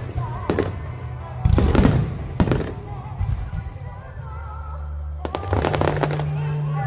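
Fireworks display with shells bursting in a series of sharp bangs: one about half a second in, a cluster around two seconds, and another cluster about five seconds in. Music plays steadily underneath.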